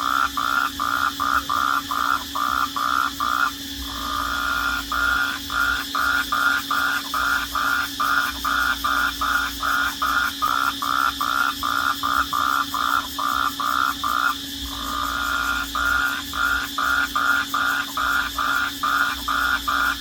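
Night chorus of crickets and frogs: a loud call pulsing about three times a second, twice merging briefly into one continuous tone, over a steady high trill and a low hum.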